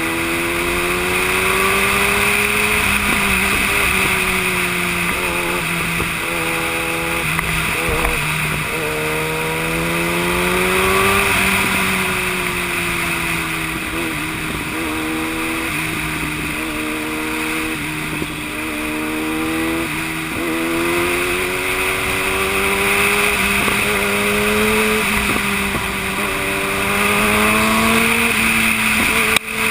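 Yamaha YZF-R1 inline-four engine heard from on board while riding, its pitch climbing under throttle, stepping down at gear changes and falling off when the throttle is rolled back, repeatedly. A steady wind hiss runs under it, and the sound cuts out briefly near the end.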